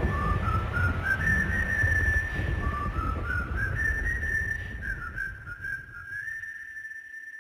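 A whistled melody: a high held note over a second line that climbs in small steps, above a low rumble, the whole fading out toward the end.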